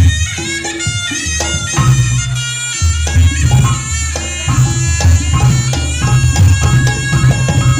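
Reog gamelan music: a slompret (double-reed shawm) playing a reedy melody that steps between notes, over a steady pattern of deep drum and gong beats.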